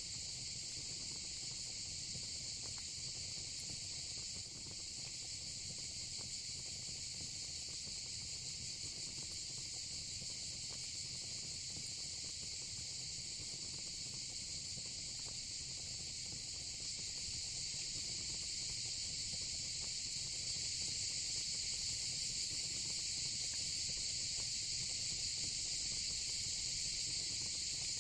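Steady, continuous chorus of insects, getting a little louder in the second half, with faint crackling from the fire pit underneath.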